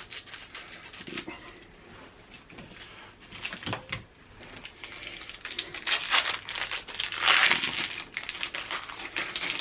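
Trading card pack wrappers crinkling and rustling as the packs are handled and opened, with a few sharp clicks in the first half and the loudest crinkling in the second half.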